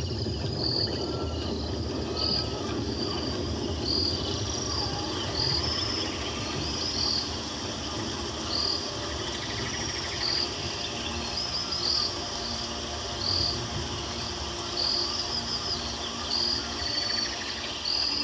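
Rainforest night ambience of chirping insects and frogs: short high chirps repeating about every second and a half over a steady low rumble.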